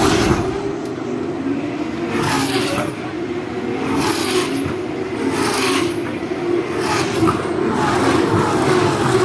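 Formula One cars passing close by one after another at speed. About every second and a half a loud engine sweeps past and falls in pitch as it goes, over the steady running of the others.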